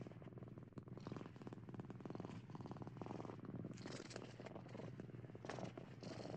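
A domestic cat purring: a fast, even rumble that swells a little every second or two.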